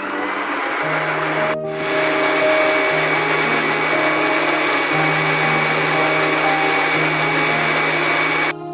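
Electric blender running, whipping eggs and icing sugar in its jar, with a short break about a second and a half in; it stops just before the end.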